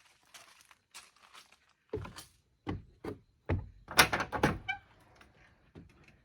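Faint crunching footsteps, then from about two seconds in a series of louder thuds and knocks, the loudest about four seconds in with a brief ringing after it.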